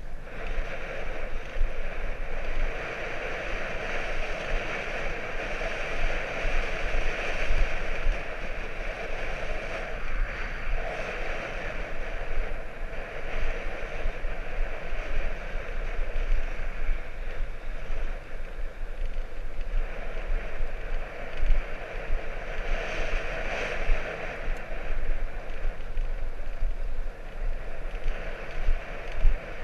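Steady rushing noise of riding a bicycle, with wind buffeting the microphone and small low jolts throughout.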